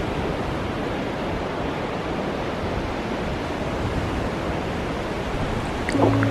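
Steady rush of ocean surf on a beach, with music coming in at the very end.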